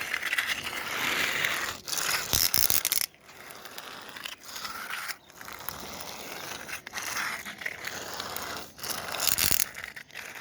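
Plastic toy vehicle rolling across the floor, its wheels and gears giving a ratcheting, scraping grind in stretches broken by short pauses, loudest at about two and a half seconds and again near the end.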